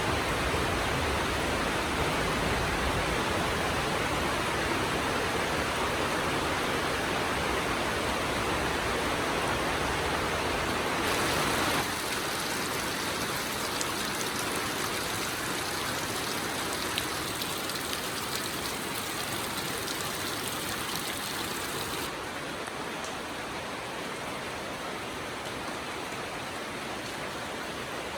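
Steady rainfall, a dense even hiss of drops, with two sudden step-downs in level and tone, about twelve seconds in and again about twenty-two seconds in.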